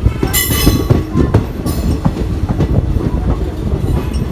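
Passenger train running along the track: a steady low rumble with rapid wheel clatter over the rails, and a brief high-pitched squeal about half a second in.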